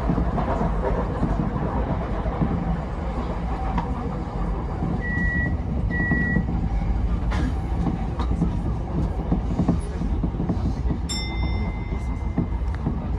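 Tokyo Metro 10000 series electric train running along the line, a steady rumble of wheels on rails heard from inside the car. Two short high beeps sound about five and six seconds in, and a longer high tone near the end.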